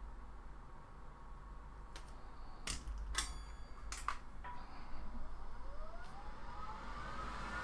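A few sharp clicks of tools or bench equipment, then a hot-air rework station's fan spinning up: a whine rising in pitch and a growing rush of air as the nozzle heats, for desoldering a small capacitor.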